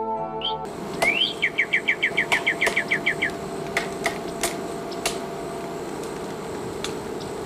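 A bird calls a rising note, then a quick run of about a dozen short falling notes. Sharp scratchy strokes of a broom sweeping dry leaves on dirt ground come every second or so.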